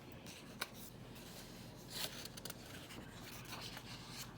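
Faint rubbing and rustling with a single sharp click about half a second in and a soft scrape around two seconds: the pages of a picture book being handled and turned.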